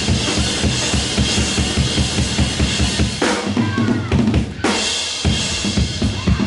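Live band playing with a drum kit up front: a steady kick-and-snare beat with cymbals and bass. About three seconds in the cymbals drop away for a moment, leaving bass and drums, and the full band comes back in about a second and a half later.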